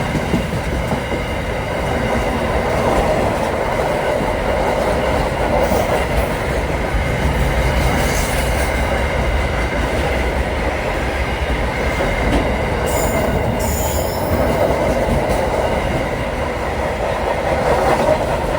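Train running along the track: a steady rumble and rattle of wheels on rails, with two short high-pitched squeals about two-thirds of the way through.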